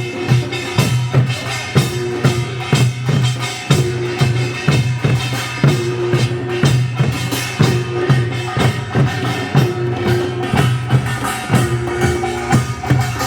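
Folk percussion music with a steady beat of drum strikes and hand-percussion hits over a sustained low tone.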